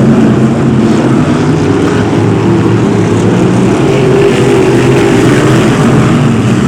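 BriSCA F1 stock car engines running loud and steady, their pitch wavering up and down as the cars lap the oval.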